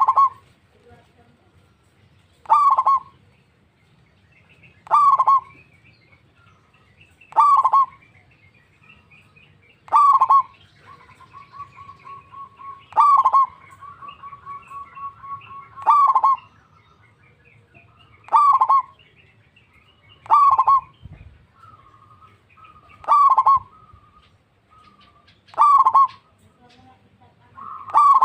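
Zebra dove (perkutut) calling: a loud short call repeated about every two and a half seconds, with a softer, rapid trilling coo between some of the calls in the middle and near the end.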